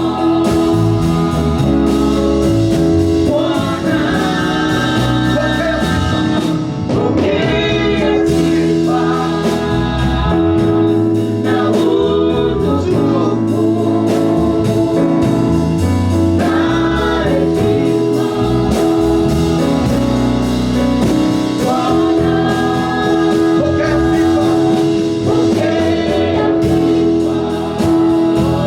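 Gospel praise and worship music: voices singing together over keyboard and bass accompaniment, with a steady sustained organ-like tone.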